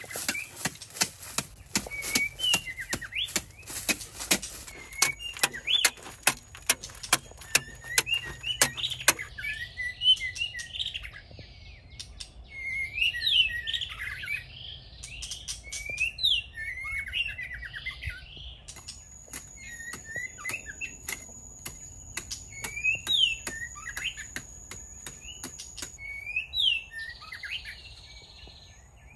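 Forest birds calling, with repeated short sweeping whistled chirps throughout. In the first third and again past the middle, runs of sharp clicks sound under the calls, along with a thin steady high-pitched tone.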